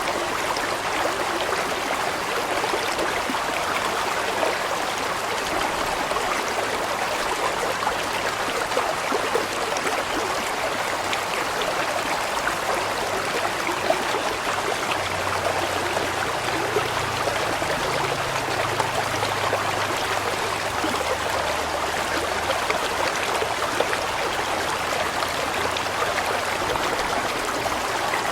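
Large mountain stream flowing, a steady, continuous rush of water. About halfway through a faint low hum comes in under it, shifting in pitch for several seconds.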